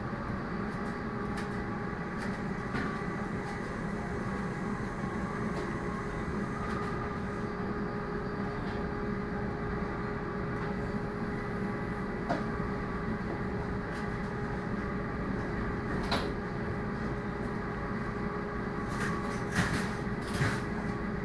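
Steady running noise inside a Shinkansen bullet-train car at speed: an even rumble with a constant hum through it. A few short sharp clicks come in the second half.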